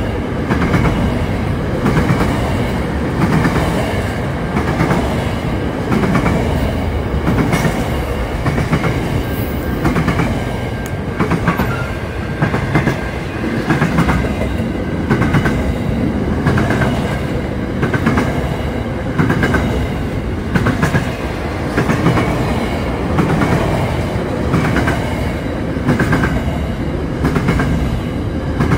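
Intermodal freight train's container wagons rolling past close by, a continuous rumble with the wheels clacking over the rail joints in a steady rhythm.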